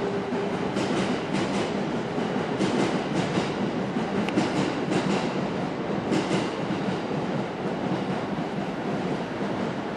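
E2 series Shinkansen train pulling into the station: a steady rumble of wheels and running gear, with short clicks, often in quick pairs, as the wheels run over the track.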